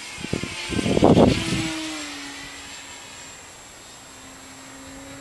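Brushless electric motor and propeller of an RC hotliner whining past on a fast low pass. It swells to its loudest about a second in, then fades as the pitch drops. The pass was fast enough to start a little wing flutter.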